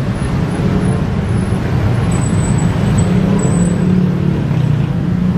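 Bus engine running steadily, a loud low hum with no change in pitch.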